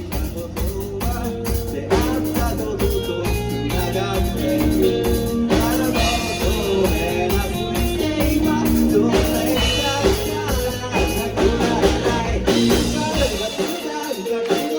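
Japanese rock song playing, with electric guitars, bass, drums and singing. The bass and drums drop out near the end.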